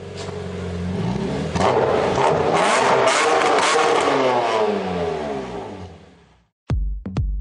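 A car engine revving hard: it swells up, holds loud for a few seconds, then fades away. Near the end, an electronic dance beat with heavy kick drums starts.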